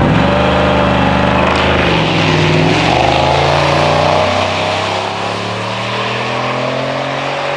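Two drag-strip street cars, a Chevrolet Impala SS and an old police pursuit car, launching and accelerating down the strip. The engine pitch climbs and drops at upshifts about two and four seconds in, then holds and slowly falls as the cars pull away.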